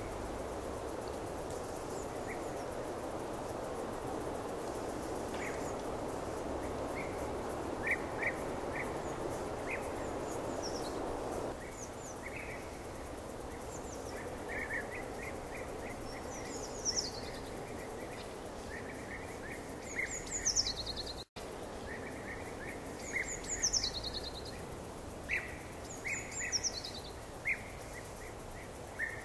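Small birds chirping over a steady outdoor background hiss. Short chirps come now and then in the first half, and quick falling high calls repeat more often in the second half.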